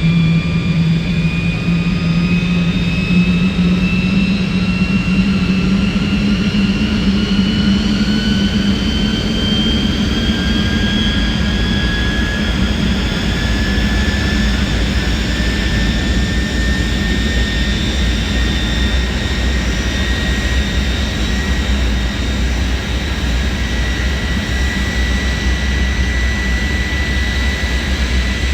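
Vampire jet car's turbojet engine spooling up during start-up: a loud whine that climbs slowly in pitch, with a deep rumble growing underneath in the second half.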